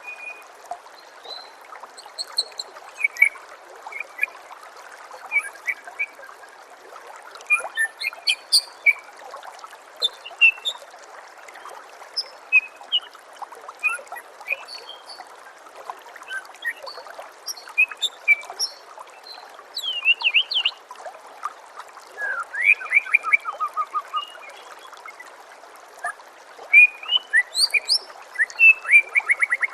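White-rumped shama (murai batu) singing: short sharp whistled notes and quick trilling phrases in loose bursts, busier in the second half, over a steady trickle of running water.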